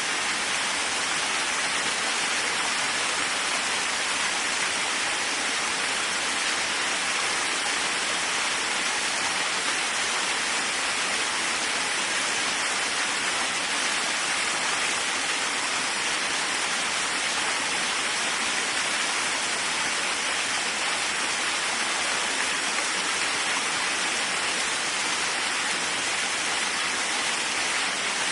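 Waterfall: water falling and splashing in a steady, unbroken hiss, strongest in the upper-middle range with little low rumble.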